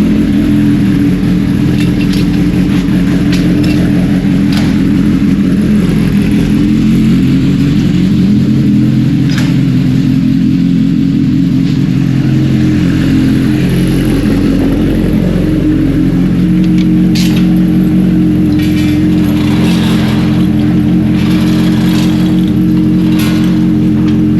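Kawasaki Ninja H2's supercharged inline-four idling steadily just after a cold start, warming up.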